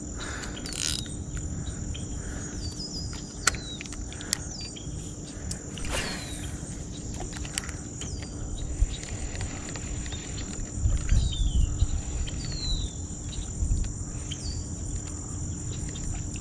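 Steady high-pitched drone of an insect chorus, with short falling chirps recurring every second or two. A few sharp clicks and low gusts of rumble, mostly in the second half.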